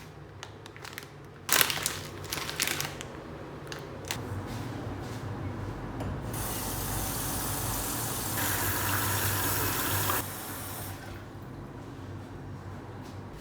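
A few sharp clattering knocks of dishes, then water running from a tap for about four seconds before it is shut off abruptly.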